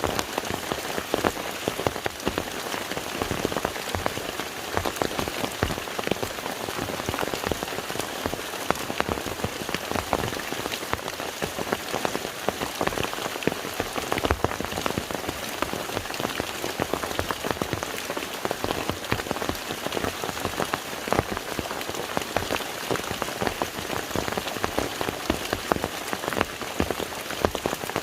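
Steady rain falling on a lake's surface: a dense, even patter of countless separate drops.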